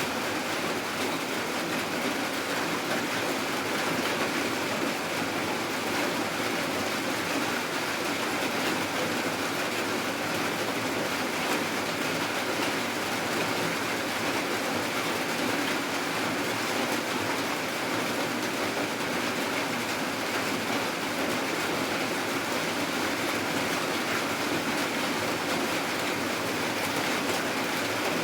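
Rain falling steadily, an even hiss with no pauses or changes.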